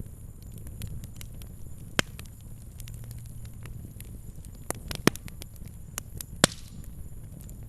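Fire crackling, with irregular sharp pops over a low steady rumble; the loudest pops come about two, five and six and a half seconds in.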